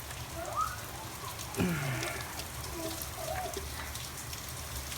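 Steady rain falling, an even hiss of drops, with a couple of faint brief sounds over it.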